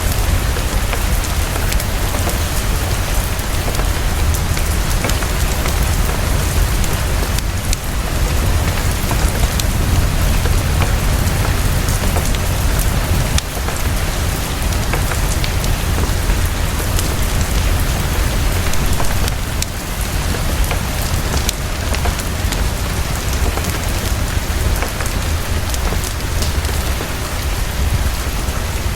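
Heavy, fast, steady rain with a constant low rumble underneath, and scattered small sharp ticks and pops from a crackling fireplace.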